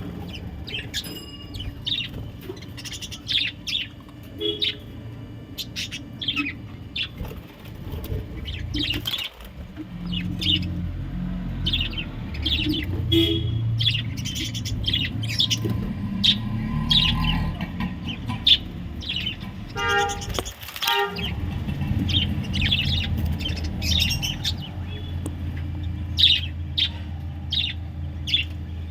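Pet budgerigars chirping with many short, rapid, high calls throughout, over a steady low hum.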